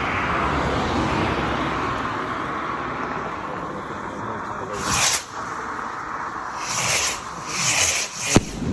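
Firework rockets: a broad hiss swells and fades over the first few seconds, then come several short hissing bursts and one sharp bang near the end.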